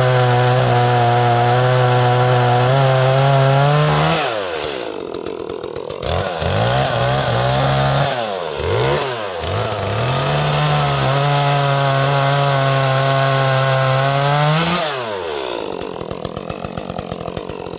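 Small two-stroke Echo chainsaw cutting through an oak round at full throttle for about four seconds. It drops back and is blipped a couple of times, cuts again at a steady high pitch for about five seconds, then falls to idle near the end.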